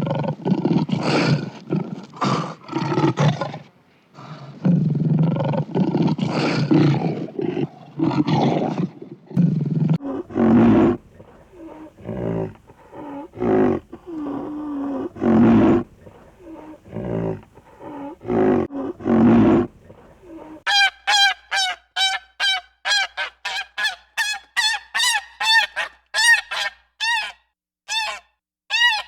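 Animal calls, with no voice or music. For about the first twenty seconds there are deep, rough calls, close-packed at first and then more spaced out. About two-thirds of the way in the sound switches to a quick series of short, high calls, about two or three a second.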